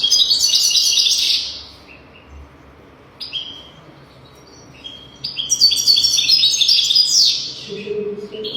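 European goldfinch singing: two bursts of rapid, high twittering song, the first about a second and a half long and the second about two seconds, with a few short single notes between them.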